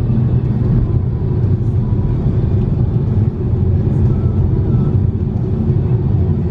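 Steady low rumble of road and engine noise heard from inside the cabin of a moving BMW.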